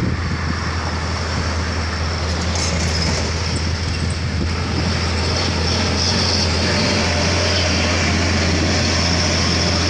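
Heavy container truck's diesel engine running steadily under load as the truck crawls up a steep bend, a constant low drone with road noise over it.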